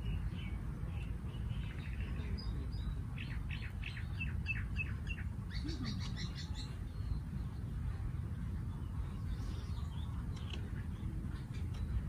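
Wild birds chirping: a run of about four chirps a second a few seconds in, then a short high trill, with fainter calls later. Under them runs a steady low outdoor rumble.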